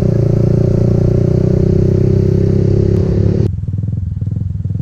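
Motorcycle engine running under way with wind rush on the microphone; about three and a half seconds in, the throttle closes and the wind rush drops out suddenly, leaving the engine's low, pulsing putter as the bike slows.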